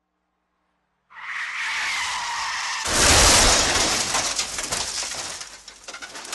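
Tyres screeching for about two seconds, then a car crash: a sudden loud impact followed by shattering glass and clattering debris that trails off.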